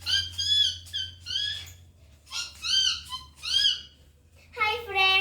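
A bird's clear whistled calls, each rising and then falling in pitch, in two runs of about four. Near the end a child's voice starts in a sing-song tone.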